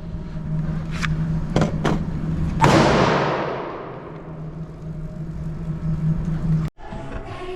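A single gunshot about two and a half seconds in, echoing and dying away slowly off the walls of an indoor range, preceded by a few short sharp clicks, over a steady low hum. Near the end the sound cuts off abruptly and music begins.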